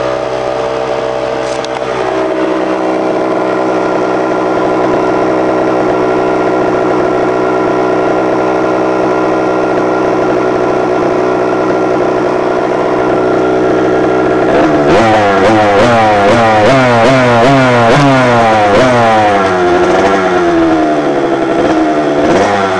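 Two-stroke motorcycle engine breathing through a freshly repacked Pro Circuit R-304 shorty silencer, idling high on the choke from a cold start, its idle settling slightly lower about two seconds in. From about fifteen seconds in it is revved in quick throttle blips, about one a second, each rising and falling in pitch.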